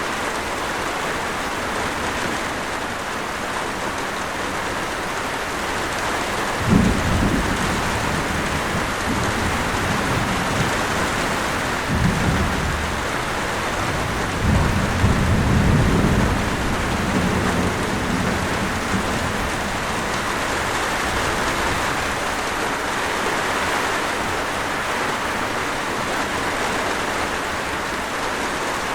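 Steady heavy rain with thunder. A sudden deep rumble comes about seven seconds in, then further rolling rumbles come midway before the rain carries on alone.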